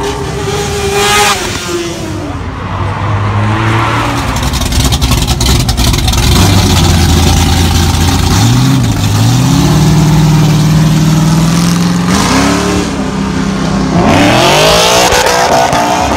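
Car engines revving and accelerating past at close range. One engine's note holds steady for a few seconds, then steps up in pitch, and near the end cars sweep past with the pitch falling away.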